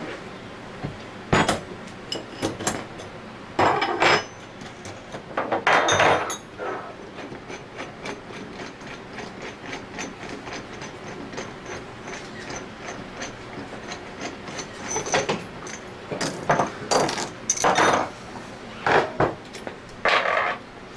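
Scattered clicks, knocks and small metallic clinks of parts and tools being handled on a scroll vacuum pump during a rebuild, in two busier bursts with lighter ticking between.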